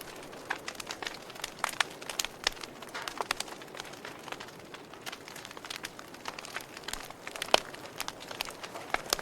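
Wood fire in a fireplace crackling, with irregular sharp pops over a soft steady hiss; one louder pop about seven and a half seconds in.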